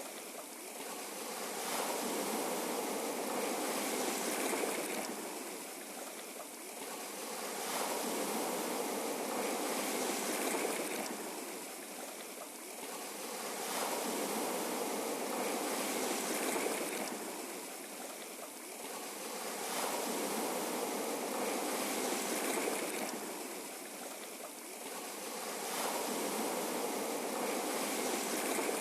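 Ocean waves washing in and drawing back on a shore, the rush swelling and fading in a regular cycle about every six seconds.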